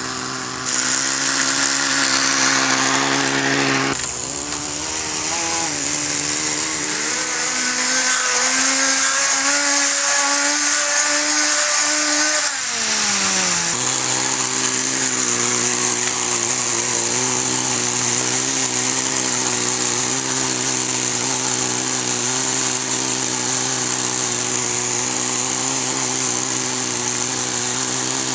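Small two-stroke nitro glow engine of a Kyosho Nitro Blizzard RC snowcat running, during carburettor tuning. It idles steadily, its revs climb slowly for several seconds, then it drops back to a steady idle a little before halfway.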